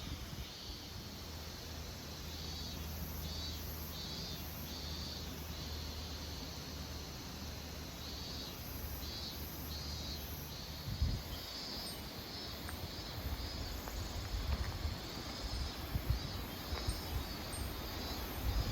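Outdoor ambience: runs of high, evenly repeated chirps, about two a second, over a steady low rumble, with a few dull thumps about halfway through and near the end.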